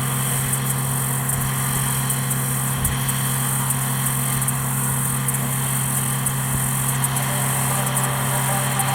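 An engine running steadily with a constant low hum under a noisy hiss, with no change in pitch or level.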